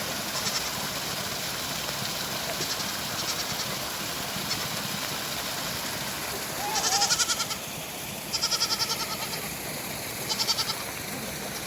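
Goats bleating over the steady hiss of heavy rain, with faint bleats early on and three loud, quavering bleats in the second half.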